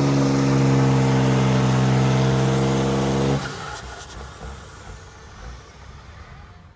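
A vehicle engine held at steady high revs during a burnout, cutting off abruptly about three and a half seconds in and leaving a fading rumble.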